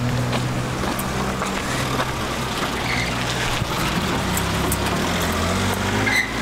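Motor vehicle engine idling, a steady low hum whose pitch shifts slightly a few times.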